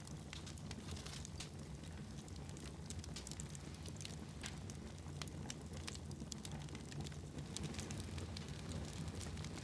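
Fire crackling in a fireplace: irregular sharp snaps and pops over a steady low rumble of the flames.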